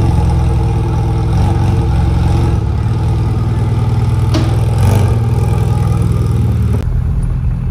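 Rover Mini's A-series four-cylinder engine running steadily on a test run after a torn driveshaft boot leaking grease was replaced. Its note changes slightly near the end.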